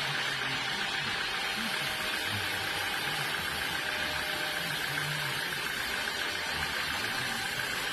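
Sawmill machinery running steadily: an even mechanical noise with a constant high hum, with no pauses or strikes.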